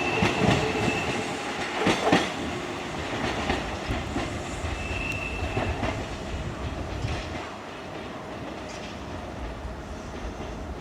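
Kintetsu Minami Osaka Line electric train clattering over rail joints, the wheel clicks fading as it moves away into a lower rumble. A brief high wheel squeal comes near the start and again about halfway.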